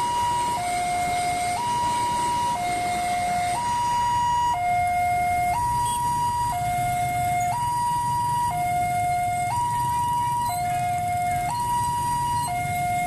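Railway level-crossing warning siren sounding a two-tone hi-lo wail, switching between a higher and a lower tone about once a second, warning that a train is approaching and the barrier is closing.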